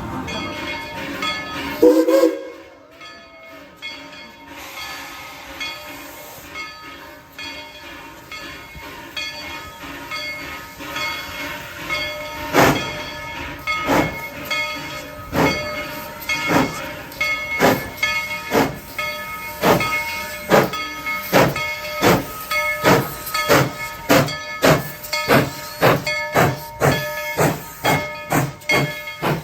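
Steam locomotive No. 190 hissing, then chuffing as it gets under way: its exhaust beats start about twelve seconds in, roughly one a second, and quicken steadily to nearly two a second.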